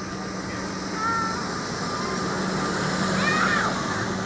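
Tractor engines running with a steady low hum. A short high-pitched voice rises over it about three seconds in.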